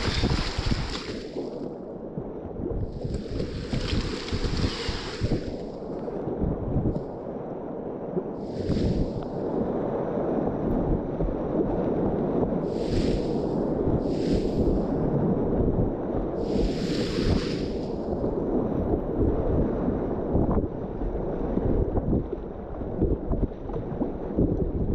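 River rapids rushing steadily under a kayak, with wind buffeting the microphone, and half a dozen hissing splashes of water breaking over the boat in the first two-thirds.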